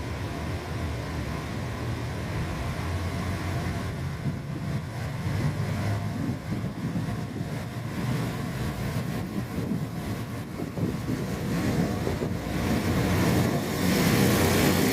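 KiHa 185 series diesel railcar running, a steady low engine rumble that grows louder near the end.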